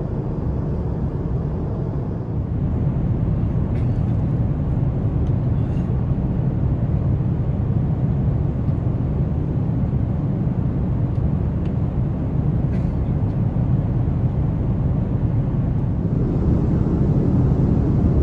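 Steady cabin noise of an Airbus A330-900neo in flight: a low rumble of airflow and engines, with a few faint clicks. The level rises slightly a couple of seconds in and again near the end.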